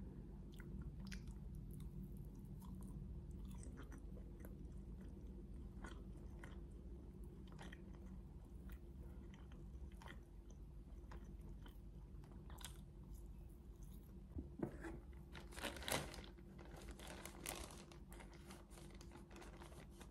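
Close-miked chewing and biting of grilled chicken satay, quiet, with scattered small clicks. A cluster of louder clicks and rustles comes a few seconds before the end.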